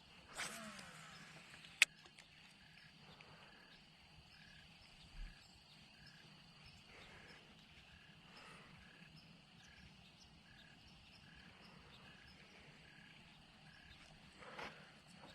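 Faint outdoor ambience with an animal calling steadily in the background, a short high note repeated about twice a second. A swish sounds about half a second in and a sharp click just under two seconds in.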